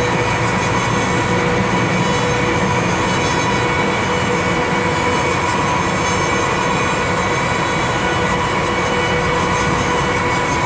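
Inside a moving Amtrak California Zephyr passenger car: steady train running noise of wheels on rail, with a constant hum.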